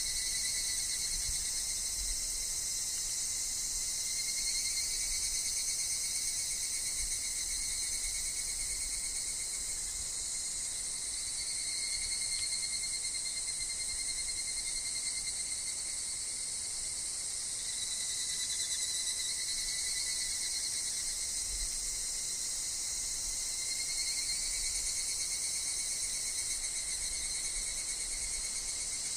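Higurashi (evening cicadas) calling in overlapping phrases that swell and fade every few seconds, over a steady high-pitched insect chorus.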